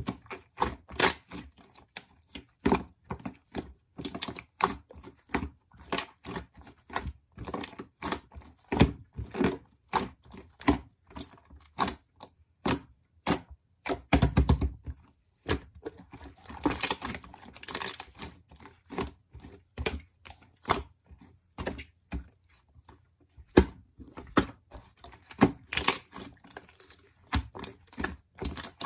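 Rapid, irregular clicks, taps and knocks of small objects being handled at close range, with longer stretches of rustling or tearing about halfway through.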